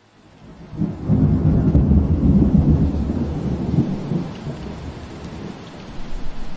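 Steady rain hiss fading in, with a long low rumble of thunder that swells about a second in and slowly dies away over the next few seconds.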